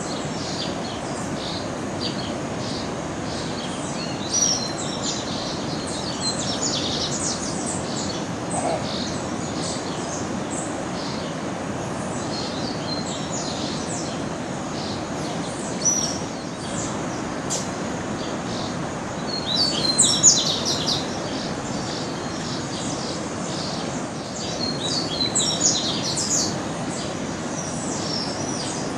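Birds chirping and calling over a steady background hiss, with many short high notes and busier, louder bursts of song about two-thirds of the way in and again near the end.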